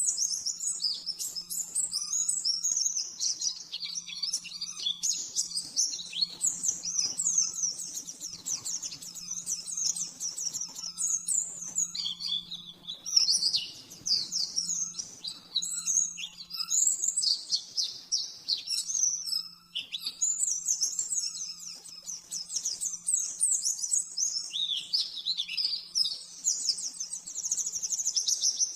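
White-eye (pleci) singing a long, fast, unbroken run of high twittering chirps and trills in the rapid-fire 'nembak' style, with only brief pauses. A faint steady low hum runs underneath.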